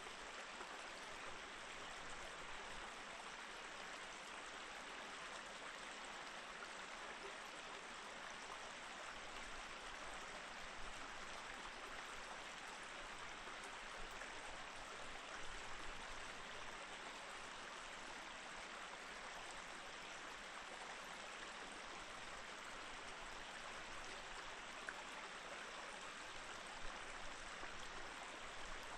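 Small mountain stream flowing over rocks: a steady, even rush of running water, with a few brief slightly louder moments.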